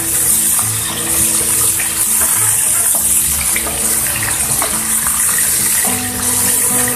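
Chopped garlic and spring onion sizzling in hot oil in a frying pan, stirred with a wooden spatula that gives occasional light taps and scrapes.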